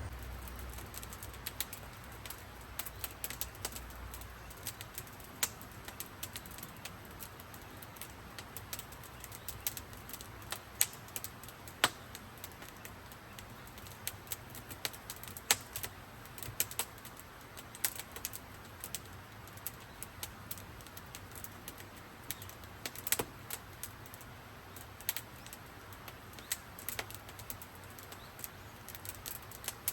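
Wood fire crackling, with irregular sharp pops and snaps of varying loudness.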